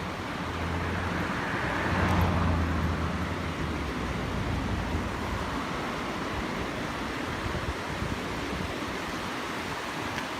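A road vehicle passing, swelling to its loudest about two seconds in and fading away, over a steady rush of flowing water.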